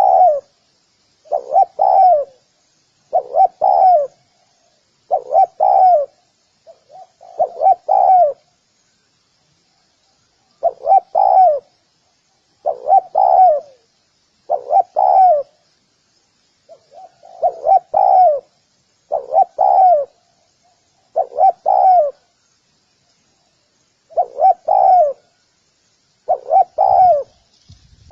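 Spotted dove cooing: a short phrase of a few soft coos repeated about every two seconds, with a couple of brief pauses.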